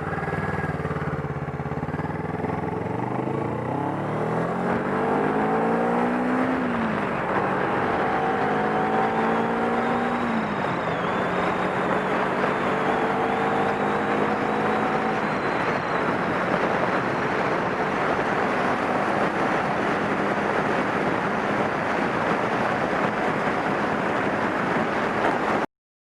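Older Kawasaki Ninja 400's parallel-twin engine accelerating, the pitch climbing and then dropping at two upshifts in the first ten seconds or so, then running at a steady cruise. A heavy rush of wind noise sits over it throughout.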